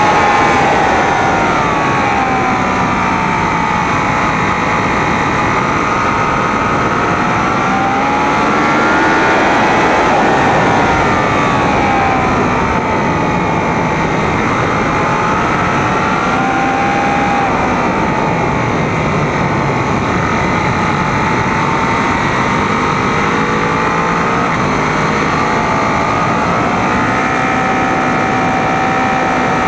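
Sport motorcycle engine at speed on a racetrack, heard from a camera mounted on the bike. The engine note rises and falls every few seconds as the rider works the throttle, over a steady rush of wind noise.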